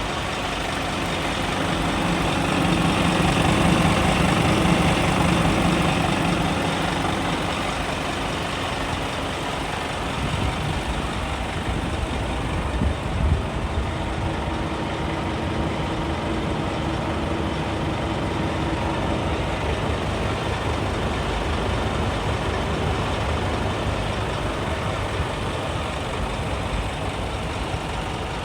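Scania P280 truck's diesel engine running. It rises in speed and grows louder for a few seconds near the start, then settles back to a steady run, with a couple of short knocks about halfway through.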